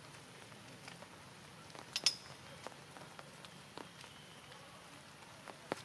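Rain falling: a steady hiss with scattered drips and ticks, and a sharper click about two seconds in and another near the end.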